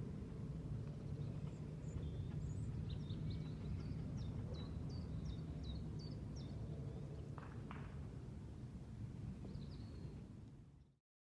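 Lakeside outdoor ambience: a steady low wind rumble with a small bird singing a series of short high chirps through the middle. There are two soft knocks about seven and a half seconds in, and the sound cuts off suddenly near the end.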